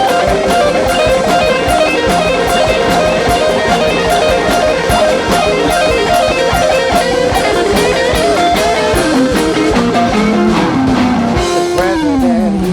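Rock band playing live: an electric guitar solo of quick runs of notes over a drum kit, ending near the end with a long note sliding down in pitch.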